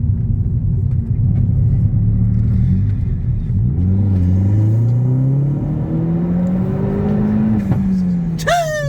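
Corsa VXR's 1.6-litre turbocharged four-cylinder with a cat-back exhaust, running with a low rumble and then accelerating hard, its pitch climbing for about four seconds. The pitch falls as the throttle is released, with a single sharp pop from the exhaust on lift-off. Near the end there is a brief high falling whistle-like tone.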